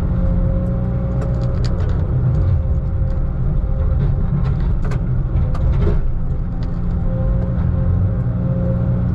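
Log truck's diesel engine running steadily with a low rumble, heard from inside the cab, with scattered small rattles and clicks.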